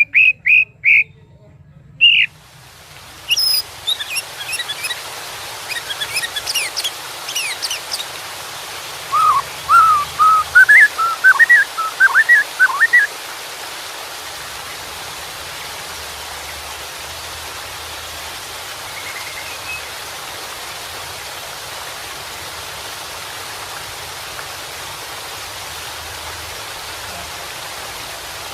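White-rumped shama singing: a few loud short notes, then high quick sweeps, then a warbling phrase that ends about 13 seconds in. Steady rushing water starts about two seconds in and continues alone afterwards.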